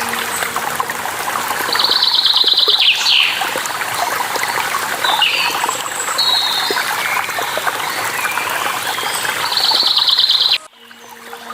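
Steady rush of waterfall water with birds chirping over it, including two rapid buzzy trills, one a couple of seconds in and one near the end. About a second before the end the sound cuts off suddenly, then fades back in.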